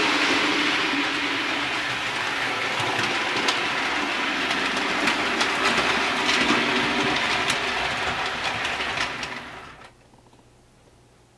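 Bachmann OO gauge Class 47 model diesel locomotive running on the layout track: a steady motor and gear hum, with wheels clicking now and then over the rail joints. It fades out about ten seconds in.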